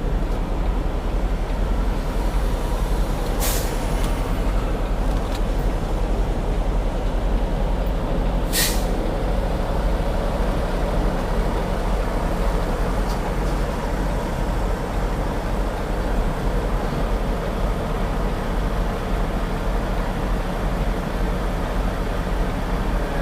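Semi-truck diesel engine running steadily at low speed while the rig is backed into a dock, with two short air-brake hisses, about three and a half and eight and a half seconds in.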